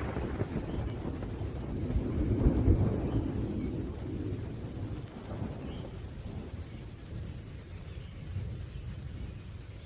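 Thunder rumbling with rain falling: a deep roll that swells about two to three seconds in, then slowly dies away under the steady rain.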